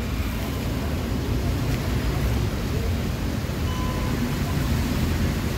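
Steady low rumble and hiss of traffic standing in a jam in light rain; the rider's own motorcycle engine is switched off.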